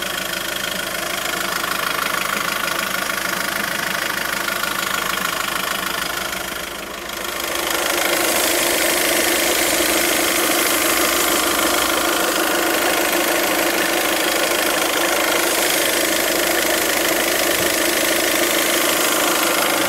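Volkswagen Golf 6 1.6 TDI four-cylinder diesel engine running at idle, with a steady hiss, a white noise coming from the right side of the engine. A third of the way in, the sound dips briefly, then comes back louder with more hiss.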